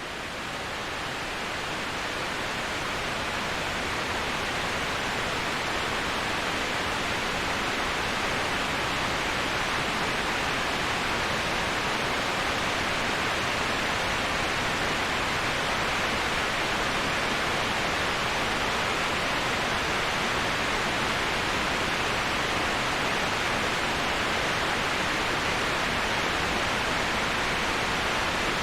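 Waterfall, steady rushing water heard as an even hiss strongest in the upper-middle range. It swells up over the first couple of seconds, then holds unchanged.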